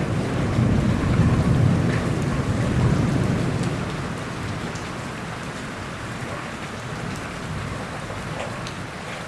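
Steady rain falling, with scattered sharp drops, and a low rumble of thunder that swells over the first few seconds and then fades away.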